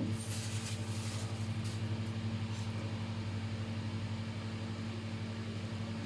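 Steady low electrical hum of a running kitchen appliance, holding one even pitch with a couple of higher overtones, with a few faint ticks.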